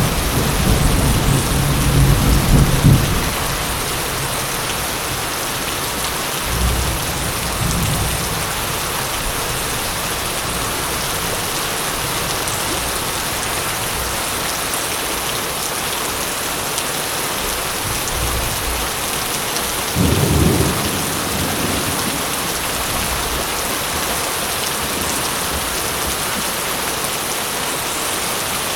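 Steady heavy rain falling, with low rumbles of thunder in the first few seconds, fainter ones a few times later, and another rumble about twenty seconds in.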